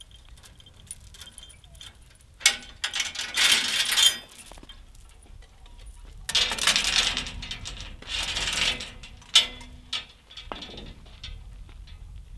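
Heavy metal chains rattling and clinking as they are handled and unhooked from steel railing posts, in several bursts of jangling, with a single sharp metal clank near the end.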